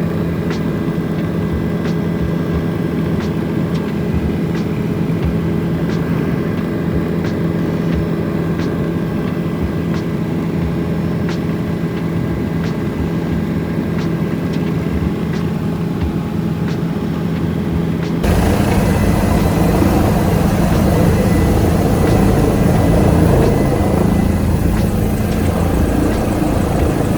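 Helicopter engine and rotor drone, steady and even-pitched. About two-thirds of the way through it switches abruptly to a louder, rougher rushing noise.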